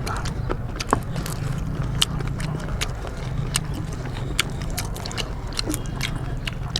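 People eating rice and curry: irregular wet mouth clicks and smacks of chewing, over a steady low hum.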